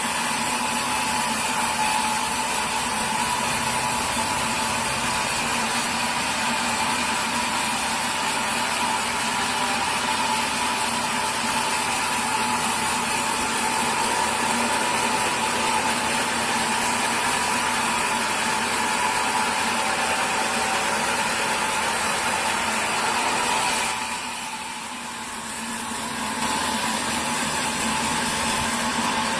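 Sawmill machinery running steadily with a constant hum, dropping briefly in level about 24 seconds in before picking up again.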